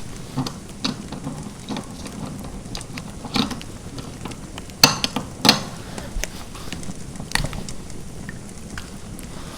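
Fireplace fire crackling: a steady low hiss with irregular sharp pops, the loudest two about halfway through.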